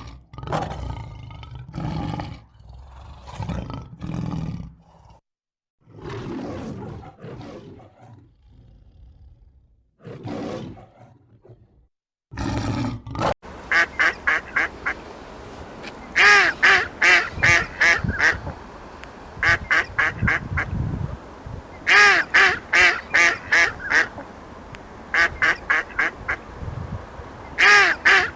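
Large animal roaring and growling in low, rough calls for about the first half, then ducks quacking in loud rapid bouts of six to eight quacks each, repeated several times.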